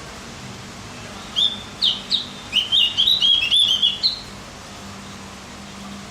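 Javan grey-throated white-eye (opior jawa) singing one quick phrase of high chirping notes, lasting about three seconds and starting a little over a second in.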